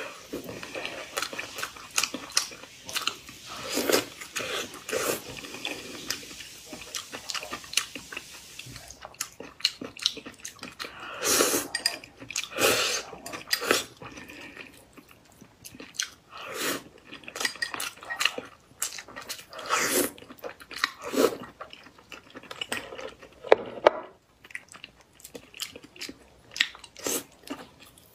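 Close-miked eating sounds: a person chewing and biting food, with wet mouth clicks and smacks coming in irregular bursts.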